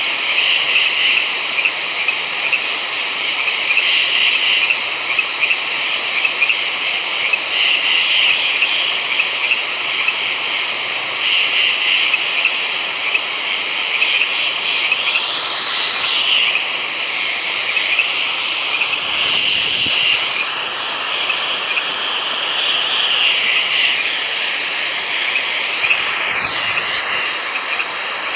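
Night chorus of frogs: a steady high-pitched calling with a louder burst of calls repeating about every four seconds.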